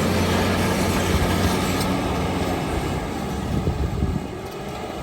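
John Deere crawler bulldozer's diesel engine running under load with a steady low note; the note breaks up about three seconds in and the sound drops quieter near the end.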